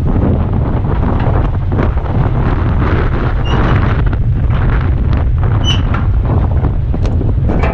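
Eight-wheeler dump truck's diesel engine running steadily, with wind buffeting the microphone. A few short metallic knocks and two brief squeaks come through near the middle.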